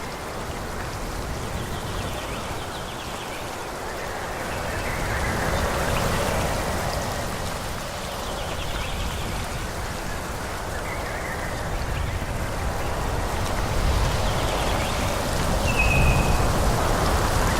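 Wind blowing through forest trees, rising and easing in slow gusts over a low rumble, with a few faint short high chirps.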